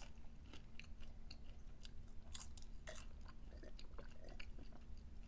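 Close-up chewing and biting of snack food, with soft crunches and small mouth clicks scattered irregularly.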